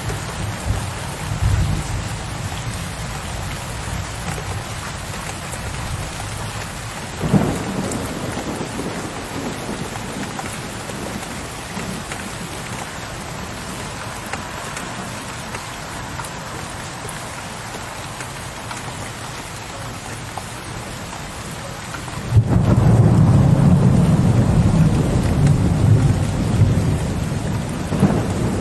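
Steady rain with thunder. A short crack of thunder comes about seven seconds in, and about two-thirds of the way through a loud, low rumble of thunder breaks suddenly and rolls on for several seconds over the rain.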